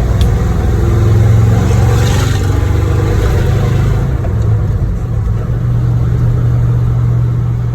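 Motor-vehicle engine running steadily with a deep, low exhaust note, swelling slightly about a second in.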